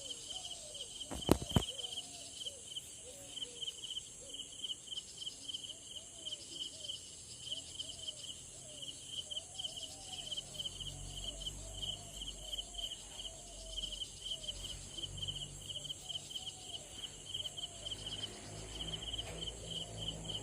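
Insects chirping in a fast, pulsing rhythm over a steady high hiss, with short repeated lower calls among them. Two sharp knocks come about a second in, and a low rumble sets in about halfway through.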